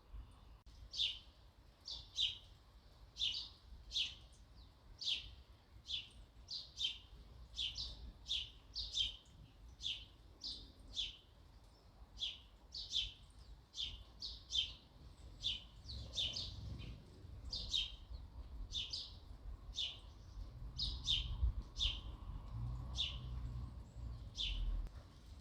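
A sparrow chirping over and over, single short chirps a little more than one a second, each dropping quickly in pitch, over a faint low rumble.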